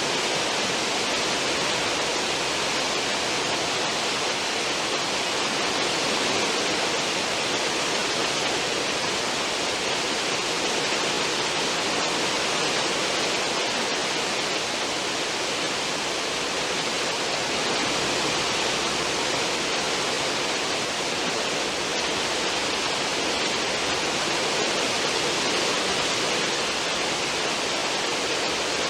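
Churning water of a cruise ship's stern wake, a steady rushing hiss without breaks or changes.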